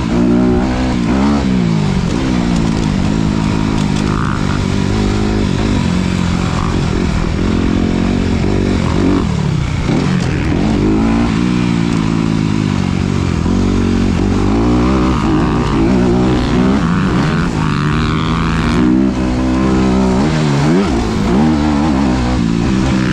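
Engine of a 2019 Honda CRF250RX, a 250 cc single-cylinder four-stroke dirt bike, ridden hard. Its pitch keeps rising and falling as the throttle is opened and closed through the gears.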